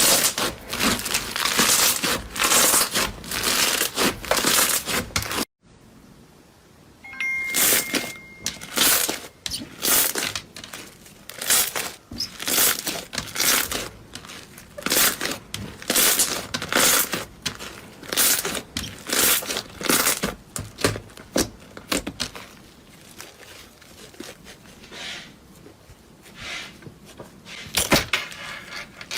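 Crunchy material being crushed and crumbled by hand, giving dense runs of crackling crunches. The crunching cuts off abruptly about five seconds in, then comes back as sparser, quieter crackles that grow denser again near the end.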